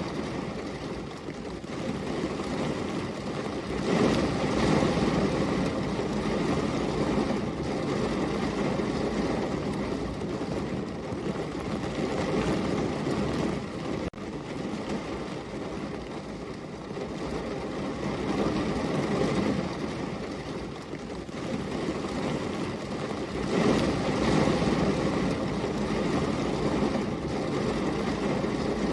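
Steady heavy rain: a dense, even hiss that swells louder about four seconds in and again near the end.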